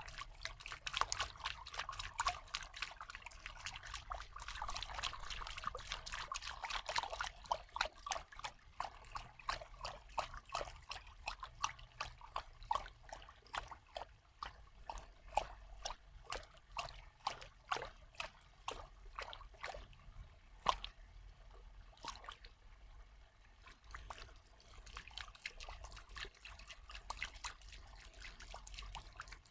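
Water trickling and dripping in many small, separate drops and splashes. The drops come thick and fast for the first several seconds, then thin out into sparser single drips.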